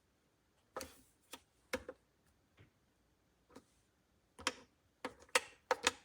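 About ten short, sharp clicks and taps, a few scattered early on and several close together in the last second and a half.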